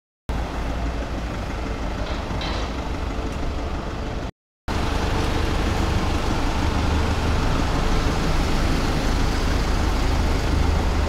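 Engines of parked vehicles idling steadily, with most of the sound low down. It cuts out to silence twice, briefly: right at the start and about four seconds in.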